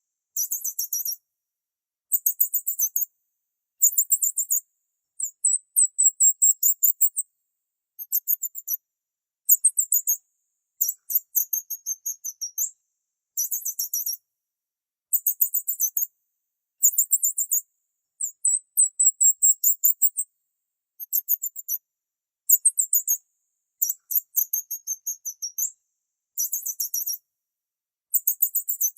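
Small bird chirping: about sixteen short phrases of rapid, very high-pitched notes, each a second or so long, with brief pauses between them.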